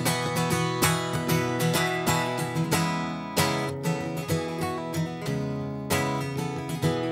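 Acoustic guitar strummed in a steady rhythm, playing chords through an instrumental passage of a song with no singing.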